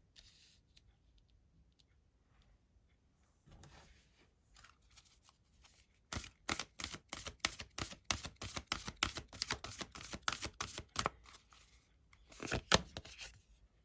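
Tarot cards being shuffled by hand: a run of quick, soft card clicks and slaps starts about six seconds in, with a louder flurry near the end.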